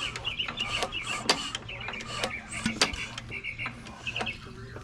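Birds chirping, with sharp, irregular knocks every half second to a second over a steady low hum.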